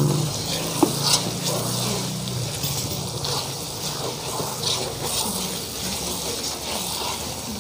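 Spice paste of ground dried chillies frying in oil in a large steel pot, a steady sizzle with brief louder spurts as a ladle stirs it. The paste is nearly at the stage where the oil separates out. A low steady hum runs under it for the first two seconds or so.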